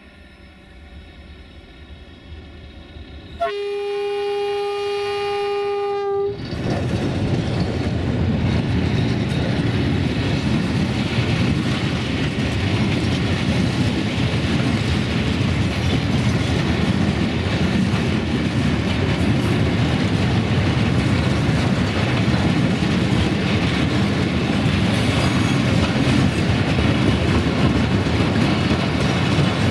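A horn on the Electroputere LDE2100 (ND2/060-DA) diesel-electric freight locomotives sounds one steady note for nearly three seconds, starting about three seconds in. Then comes the loud, steady rumble of the locomotives and the heavy freight wagons rolling past on the rails.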